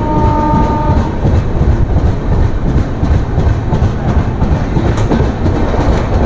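Express train running, heard from on board as it pulls out of a station: a loud, steady rumble with wheels clattering over the rail joints. A brief steady tone sounds over it in the first second.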